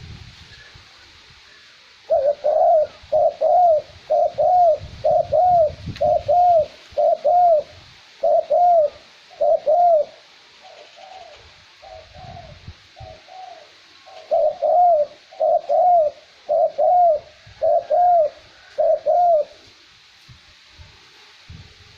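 Male cu moi dove calling: a long series of quick, arched coos about two a second, starting about two seconds in, weaker for a few seconds in the middle and stopping near the end. Light wind rumbles underneath. This is the male's call, used as a lure to draw wild doves in.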